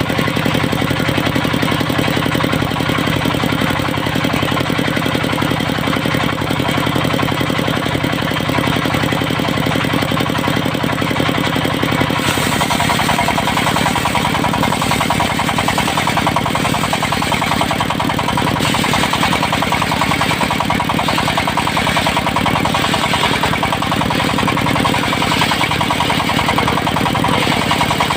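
The engine driving a portable circular sawmill runs steadily. About twelve seconds in its note changes and a brighter, higher sound joins it.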